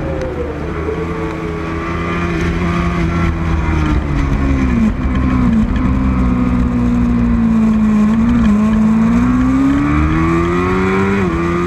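Racing motorcycle engine running hard and continuously, its pitch sinking slowly and then climbing again over several seconds as the revs change.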